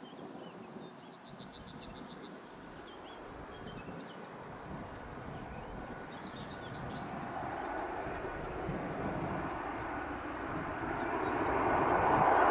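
Boeing 737-800 jet engines on approach to land, a noise growing steadily louder as the airliner nears, with a faint high engine whine joining about halfway through. Around a second in, a bird gives a quick run of about ten chirps.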